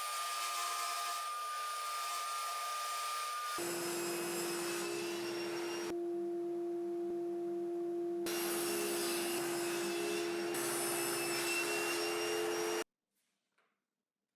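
Power saw motor running steadily while cutting wooden parts. The hum changes abruptly a few times, then cuts off suddenly near the end.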